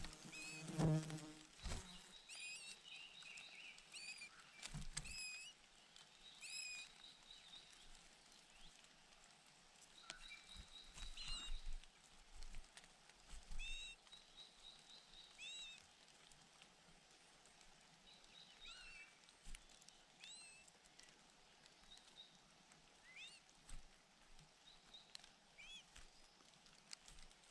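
Small birds chirping: many short, quick calls that hook up or down, repeated every second or two, with stretches of a thin, even high trill in between. A louder rustle or knock about a second in.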